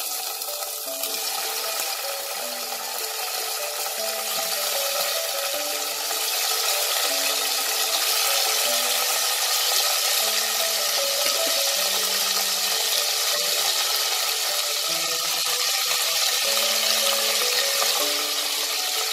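Paneer cubes sizzling as they shallow-fry in hot oil in a deep pan. The steady sizzle grows louder a few seconds in, as more cubes go into the oil. Soft background music with a slow melody plays underneath.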